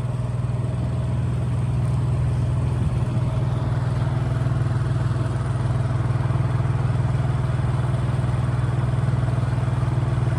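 A 7 hp four-stroke outboard motor running steadily under way, its level rising slightly about two seconds in.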